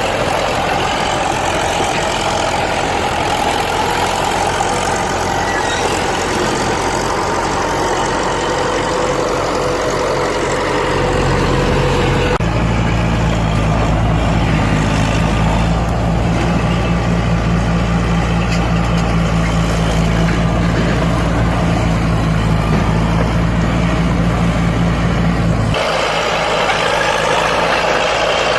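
Bulldozer's heavy diesel engine running steadily. The engine note changes abruptly twice, deeper and louder about 12 seconds in, then back near the end.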